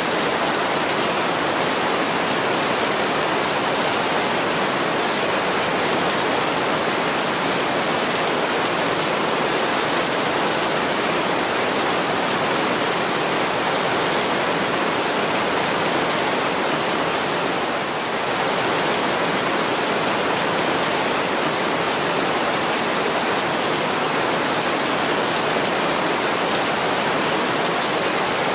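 Heavy rain pouring on window glass: a steady, even rush with no single drops or crackles standing out.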